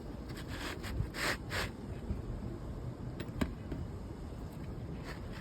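Asphalt 3-tab shingle being slid into place on the roof, scraping and rubbing in a few short strokes, with one sharp tap about three and a half seconds in.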